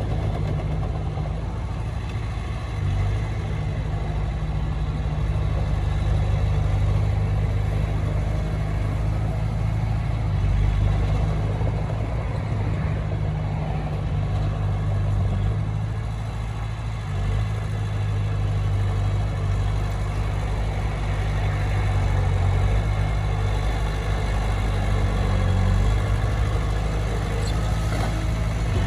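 Heavy diesel engine of earthmoving machinery running steadily, with a deep, low engine note whose level swells and eases a little.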